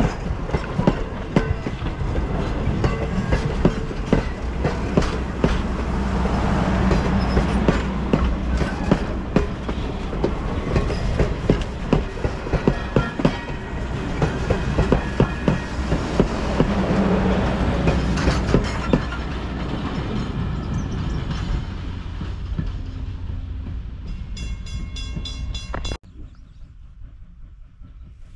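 A steam-hauled train, former Norfolk and Western 475, a 4-8-0 steam locomotive, passes close by with a dense clatter of wheels over rail joints. A brief high-pitched ringing tone comes near the end, and then the sound drops suddenly to a much quieter background.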